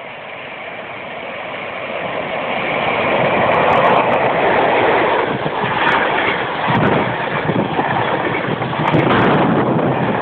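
Passenger train hauled by an EP08 electric locomotive approaching and passing, a rushing noise of wheels on rail that swells over the first four seconds and then stays loud, with a few sharp ticks.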